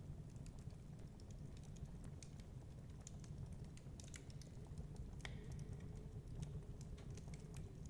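Crackling wood fire: irregular small pops and snaps of burning logs over a steady low rumble, with one slightly sharper pop a little past the middle.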